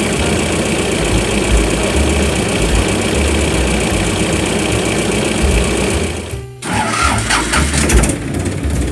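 Steady engine-like running sound. It cuts out abruptly for a moment about six seconds in, then resumes.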